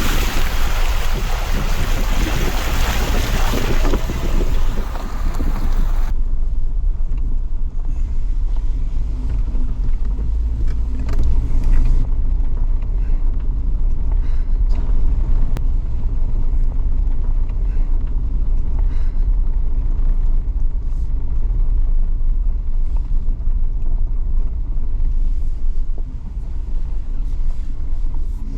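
Suzuki Jimny driving through a deep flooded water crossing: water splashes loudly against the vehicle for about the first six seconds. Then the engine runs on as a steady low rumble, with scattered knocks and bumps from the rough track.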